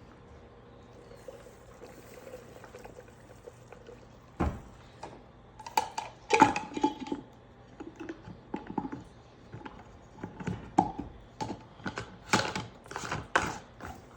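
Handling of ammunition reloading gear: after a quiet start, an irregular run of sharp clicks, knocks and clinks begins about four seconds in.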